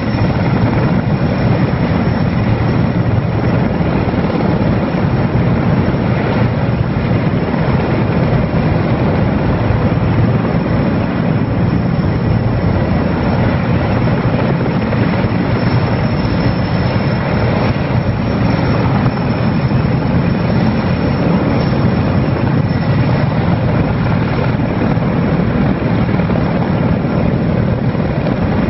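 Erickson Air-Crane (Sikorsky S-64 Skycrane) heavy-lift helicopter, its twin turbine engines and main rotor running loud and steady during a lift.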